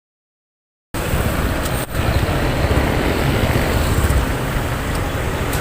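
Digital silence for about the first second, then steady motorcycle riding noise: the engine running and road and air noise while under way.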